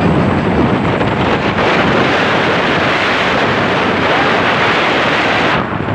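A truck passing at full throttle close by: a loud rushing roar with wind buffeting the microphone, which drops off suddenly near the end.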